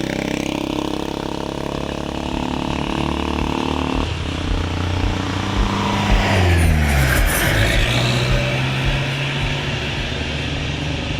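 Street traffic: motor vehicle engines running close by, with one vehicle passing about six seconds in, its engine note falling as it goes by.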